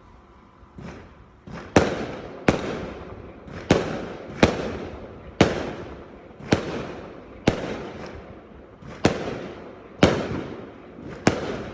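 Fireworks going off: a string of sharp bangs, roughly one a second, each trailing off in a long echo.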